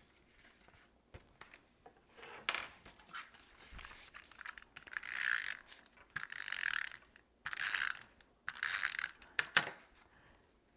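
Cardstock being handled and pressed into place on a card base: a series of short rustling, sliding bursts of paper, with a sharp click near the end.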